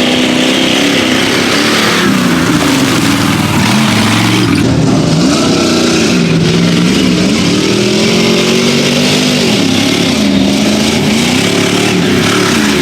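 Off-road vehicle engine revving hard, its pitch rising and falling several times as the throttle is worked.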